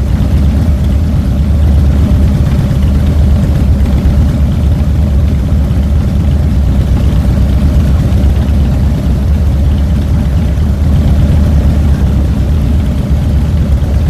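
2007 Harley-Davidson Fat Boy's Twin Cam 96 V-twin engine running steadily, heard close up from the handlebars, with no clear revving.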